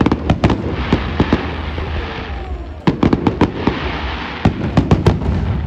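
Fireworks going off: rapid sharp bangs and crackling over a low rumble, thickest near the start, again about three seconds in, and near the end.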